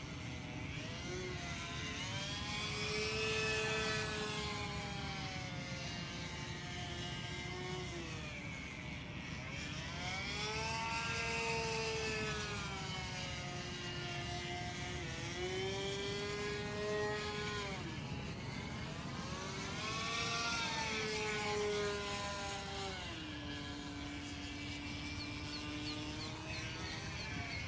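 OS 25FX two-stroke glow engine of a radio-controlled model plane in flight, its pitch rising and falling in slow sweeps as the plane passes and manoeuvres. The engine can hardly be throttled back and sounds off after long disuse, its bearings rusted, which the owner calls a strange engine sound.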